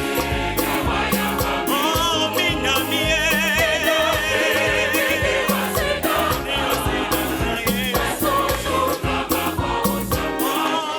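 A gospel choir singing over a live band, with a steady beat and a bass line.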